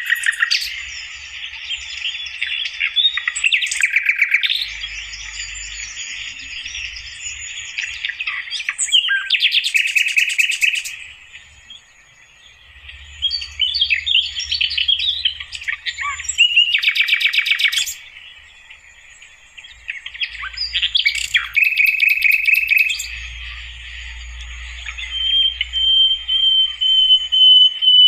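Sikatan londo flycatcher song in the wild: a busy run of chirps, trills and warbled phrases, broken by several short, fast rattling phrases, with one long steady whistle near the end.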